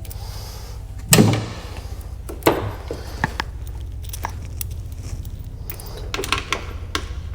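Metal knocks, clunks and small rattles from handling the Humvee's windshield frame: a loud knock about a second in, another a second and a half later, then lighter clicks and taps. A steady low hum runs underneath.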